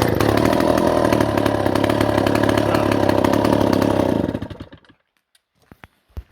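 Stihl chainsaw's two-stroke engine catching and running steadily for about four seconds, then dying away. A few faint knocks follow near the end.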